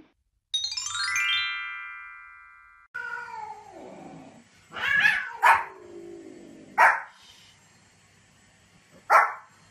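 A short musical transition sting: a quick run of chiming notes that settles into a held, fading chord. Then a long falling cry, and a small fluffy white spitz-type dog barking sharply four times.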